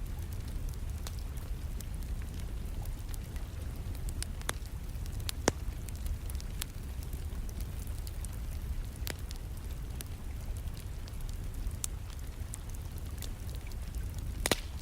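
Wood fire crackling, with sharp pops at irregular intervals, over a steady low rumble of rain. One of the loudest pops comes about five and a half seconds in, and a cluster of them near the end.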